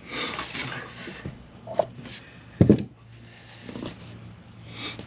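Handling noises: rustling and a few light clicks, with one dull knock about halfway through, as the old bilge pump and its hose are handled, over a faint steady low hum.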